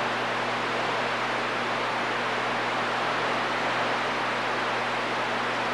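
CB radio receiver static between transmissions: a steady, even hiss with a faint low hum under it, no station keyed up on the channel.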